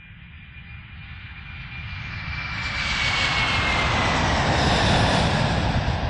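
Jet airliner passing overhead: the engine noise swells to its loudest near the end, and a high whine falls in pitch as the aircraft goes by.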